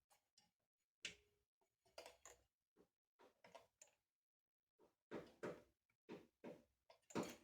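Scattered light clicks and knocks of small parts being handled at a workbench, sparse at first and coming in closer clusters in the second half.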